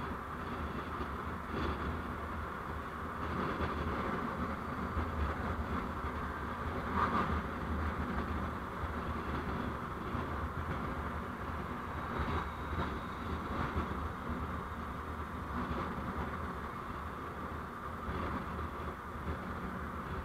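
Steady road and engine noise of a moving vehicle, picked up by an onboard recording camera: a continuous low rumble under a hiss, swelling slightly now and then, with a few faint knocks.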